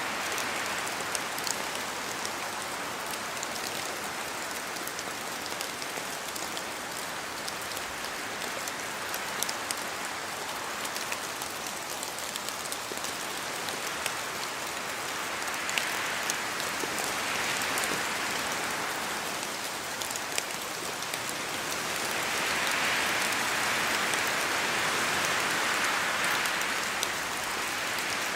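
Steady rain falling through spruce forest, with scattered sharp drips of drops striking close by. Wind swells through the trees twice in the second half, the rush growing louder for a few seconds each time.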